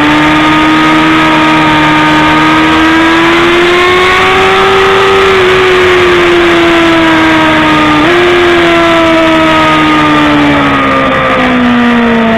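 BMW S1000RR inline-four sportbike engine running under steady throttle. Its pitch rises slowly, then eases off, jumps up suddenly about eight seconds in and steps down near the end at gear changes.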